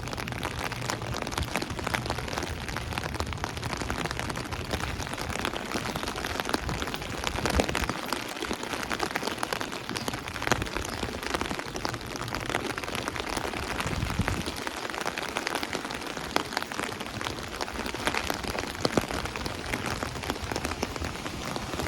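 Steady rain falling on an umbrella held just above the microphone: a dense hiss of drops with many small sharp taps.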